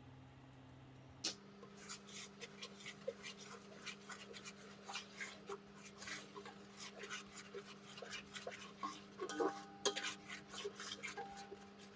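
Light kitchen knocks and scrapes from food preparation, an irregular run of short clicks, two or three a second, over a steady low hum. They start suddenly about a second in.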